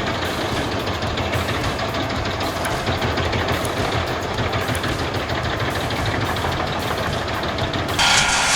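Big engine of an Albach Diamant 2000 self-propelled wood chipper running steadily. Near the end it cuts abruptly to a louder, hissing machine noise.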